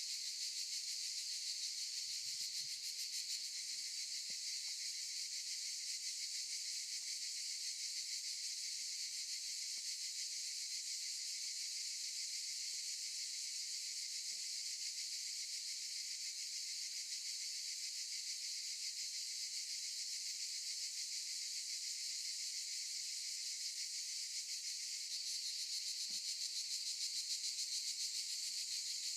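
Chorus of cicadas buzzing steadily in a dense, high-pitched drone, growing a little louder near the end.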